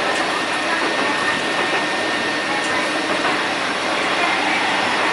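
Steady running noise of a train heard from inside the carriage: a continuous even rush with a faint thin whine held on one pitch.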